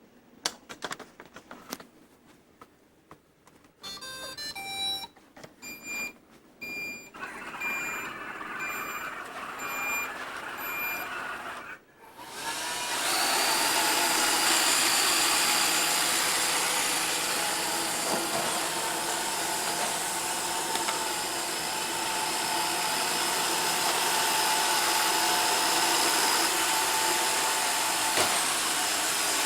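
iRobot Roomba Sage robot vacuum: a few clicks, then a short tune of stepped beeps and a single beep repeating about once a second. About twelve seconds in its vacuum and brush motors start and run with a steady whirring hum.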